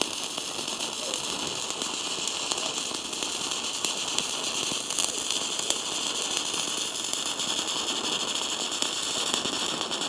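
Stick (MMA) welding arc crackling and sizzling steadily as a 2.5 mm rod burns down, faster than the welder expected.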